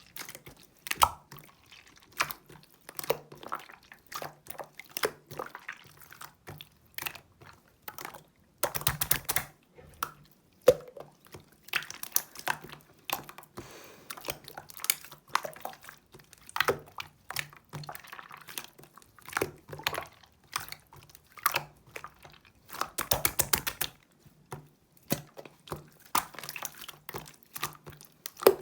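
Clear slime being pressed, stretched and folded by hand, making irregular wet clicks and pops, with two dense runs of rapid popping about 9 and 23 seconds in.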